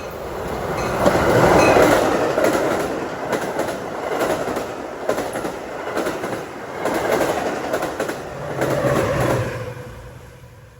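A train rolling past on the rails: a steady clattering rumble of wheels with scattered clicks as they cross rail joints. The noise fades away near the end.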